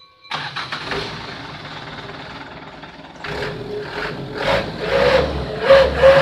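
Non-turbo truck engine with a 'wolf' novelty animal-sound exhaust starting about a third of a second in and running steadily. From about three seconds in it is revved in repeated blips, each drawing a wailing animal-like tone from the exhaust, louder toward the end.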